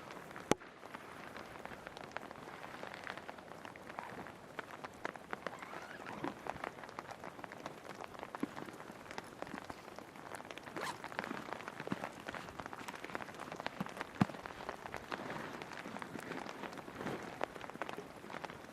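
Steady rain, with many separate drops tapping close by. One sharp tap comes about half a second in and another about three-quarters of the way through.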